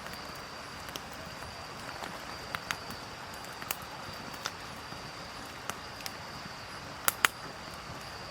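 Wood fire crackling with irregular sharp pops, the loudest pair about seven seconds in, over a steady high insect drone.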